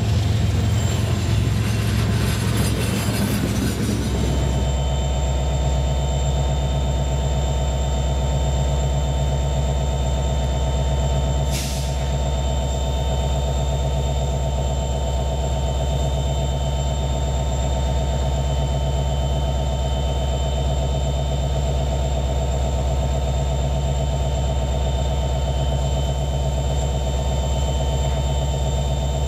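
Freight cars rolling past close by, a loud rough clatter of wheels on rail, for the first four seconds. Then a steady, even diesel drone with a few fixed tones from a slowly approaching BNSF freight locomotive, with a brief hiss about twelve seconds in.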